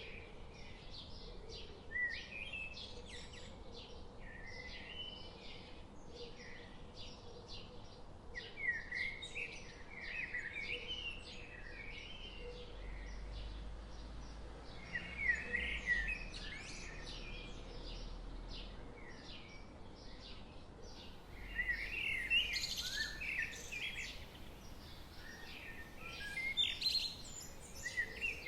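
Several songbirds chirping and singing in quick, overlapping phrases, busier in a few bursts, over a faint, even background hiss.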